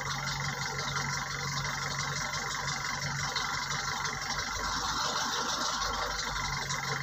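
Tata 912 LPK BS6 truck's diesel engine running, with a rhythmic mechanical noise and a note that shifts about five seconds in. This is the RPM-fluctuation and engine-noise fault that was traced to tappet clearance and an injector.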